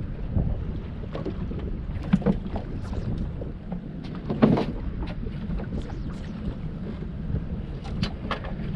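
Steady wind rumble buffeting the microphone outdoors on the water, with water noise and a few short, louder sounds scattered through it; the strongest comes about four and a half seconds in.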